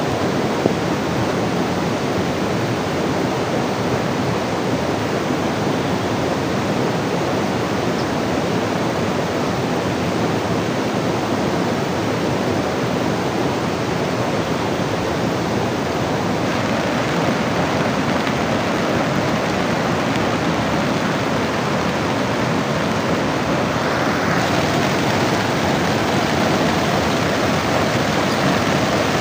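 River water rushing steadily over rocks, a loud continuous roar of flowing water.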